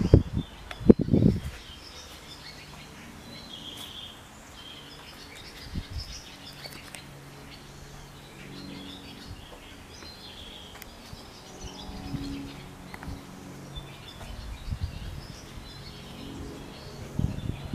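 Birds chirping on and off over a quiet outdoor background, with low rumbling bursts at the start and again near the end.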